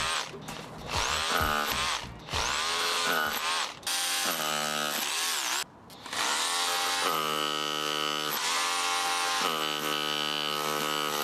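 Makita BHR241 18V cordless SDS Plus rotary hammer drill running. The motor spins up with a rising whine and is cut off and restarted four or five times in short bursts, then runs steadily for the last five seconds.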